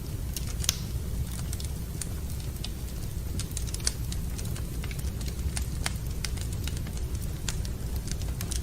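Wood fire crackling in a fireplace: irregular sharp pops and snaps over a steady low rumble, with two louder pops, one under a second in and one about four seconds in.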